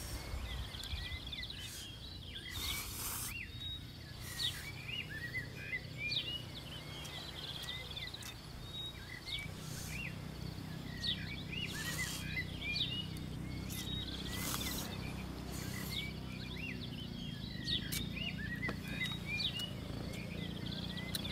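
Birds chirping over and over, many short rising and falling calls, over a steady low rumble. Several brief hissing noises come through, the longest about two and a half seconds in.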